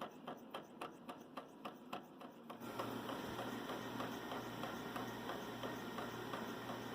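Small all-metal Stirling engine running, clicking evenly about five times a second. About two and a half seconds in, a steady low hum and hiss suddenly take over, with the rhythmic clicking fainter beneath.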